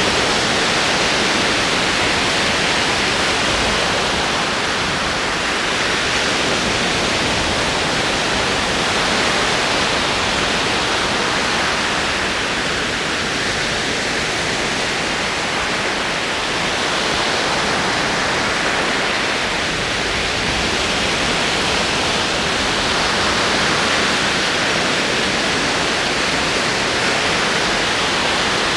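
Ocean waves rolling in: a continuous wash of surf that swells and eases slowly, a few seconds at a time.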